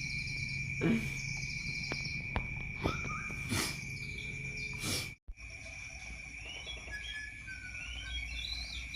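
Insects trilling on one steady high pitch, with a few sharp knocks in the first half. After a brief break about five seconds in, a bird chirps in short sliding notes.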